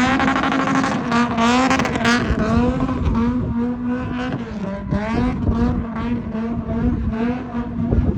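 Car engine revving up and down again and again, its pitch climbing and dropping every second or so, over a steady low hum.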